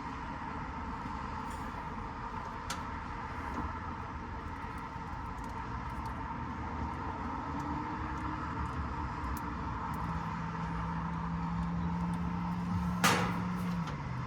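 Steady mechanical drone with a constant whine. A low hum joins about ten seconds in and slides down as it stops near the end, and there is one sharp click shortly before.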